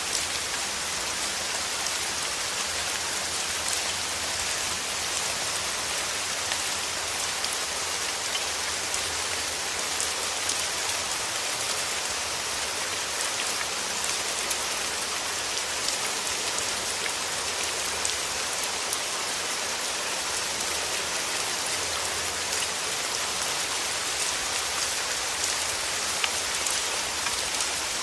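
Steady rain falling and pattering on a surface, a dense even hiss with individual drops ticking through it.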